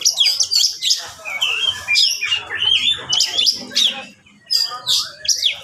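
Oriental magpie-robin singing a fast, agitated run of varied whistles, chirps and harsh notes, with a short pause about four seconds in. This is the combative, high-intensity territorial song that keepers play to provoke other magpie-robins into answering.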